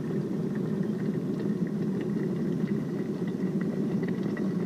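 DeLonghi Distinta electric kettle with a flat stainless steel concealed element at a rolling boil: a steady low rumble of water bubbling.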